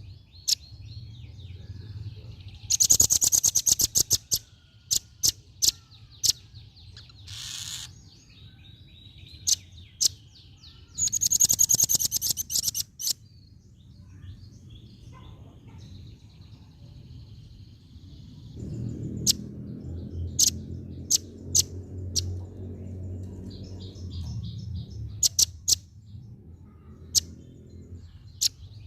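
Female velvet-fronted nuthatch calling: sharp single chip notes scattered throughout, and two loud, rapid rattling trills, one near the start and one about 11 seconds in.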